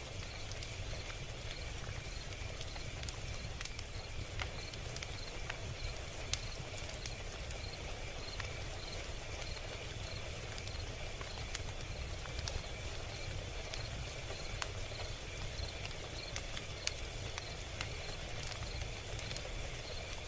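Log fire crackling: a steady low rumble with irregular sharp pops and snaps, a few louder ones standing out, over a faint, evenly repeating high chirping.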